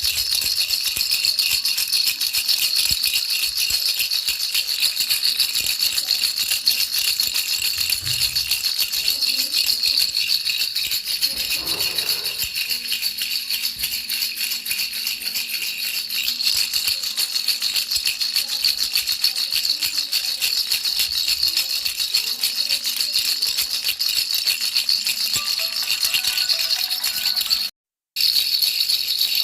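Baby's rattle shaken continuously as sleep white noise: a dense, fast, steady shaking hiss. The sound cuts out for a moment near the end, then resumes.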